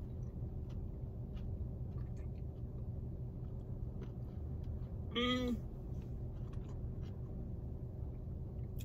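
Close-up chewing of french fries with soft mouth clicks, over a steady low hum. About five seconds in there is a short voiced hum from the eater.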